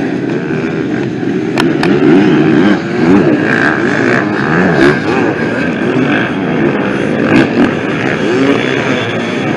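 Many dirt-bike engines running and revving together, their pitches rising and falling over one another, as in a pack of hare scrambles race bikes.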